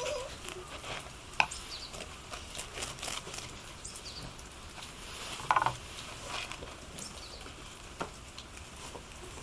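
Light rain pattering steadily, with faint bird chirps and a few sharp knocks, the loudest a double knock about five and a half seconds in.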